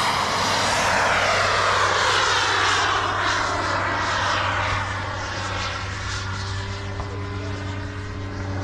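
Full-size Cessna's single piston engine and propeller passing overhead. Its engine note drops in pitch over the first few seconds as it goes by, then fades to a fainter steady drone.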